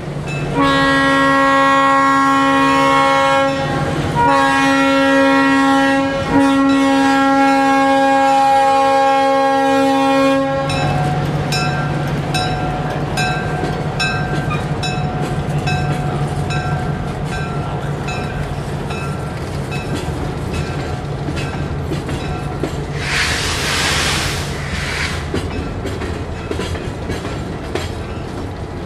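Freight train locomotive horn sounding three blasts for the grade crossing, the last the longest. Then loaded gondola cars roll past, their wheels clicking over the jointed rail in a steady rhythm with a low engine hum underneath. A short burst of hiss comes about three-quarters of the way through.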